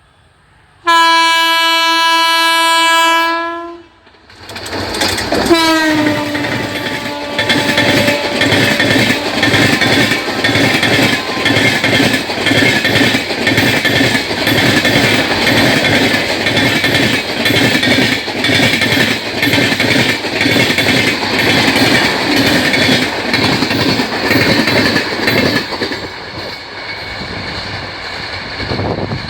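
A train horn sounds for about two and a half seconds. An express train with LHB coaches then passes at speed: the horn sounds again and drops in pitch as the locomotive goes by. A loud, fast, steady clatter of wheels over the rail follows and eases off near the end.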